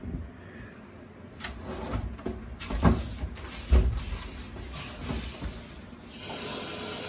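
A few handling knocks and thumps as the water valve is worked, then, about six seconds in, a steady hiss of water rushing through the newly fitted water heater supply line as the valve opens.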